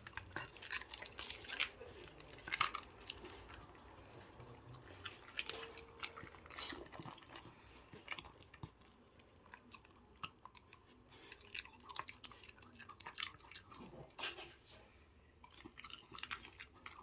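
A dog chewing a dried homemade milk-and-agar chew, with irregular crunches and clicks of its teeth.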